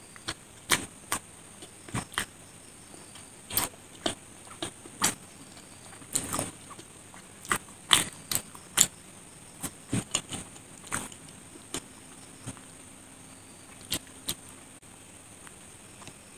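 Close-miked chewing of a soft bread sandwich with chocolate cream: irregular wet mouth clicks and lip smacks, about two a second, over a faint steady high hiss.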